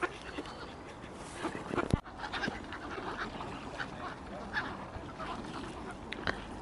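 Water birds calling around a feeding spot, short scattered calls and quacks, with a single sharp click about two seconds in.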